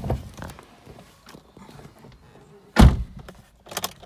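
A car door shut with a single loud thunk nearly three seconds in, among smaller knocks and rustles, with a quick pair of lighter knocks near the end.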